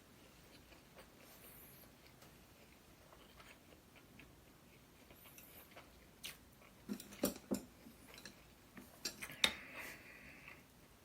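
Eating sounds: a faint, nearly still stretch, then over the last few seconds a quick run of sharp clicks and taps from utensils against dishes, mixed with chewing.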